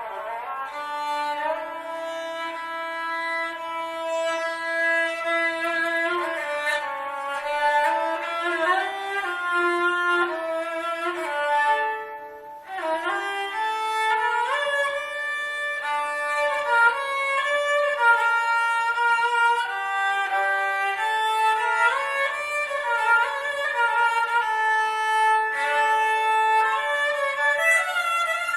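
Four-string Cretan lyra tuned G-D-A-E, bowed in a melody of held notes, often with two notes sounding together. It pauses briefly about twelve seconds in.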